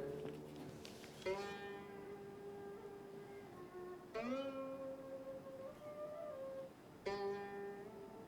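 Slow background music on a plucked string instrument: three notes struck about three seconds apart and left to ring, the middle one sliding up in pitch.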